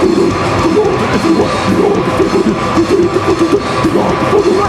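Live rock band playing loudly, with a voice singing over the band and some crowd noise.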